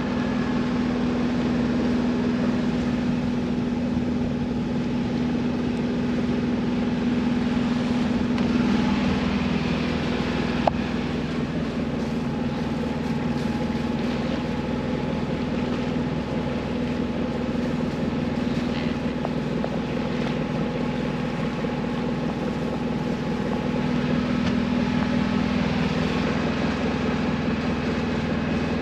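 Small sailboat's inboard engine running steadily under way, with the rush of water and wind around the hull.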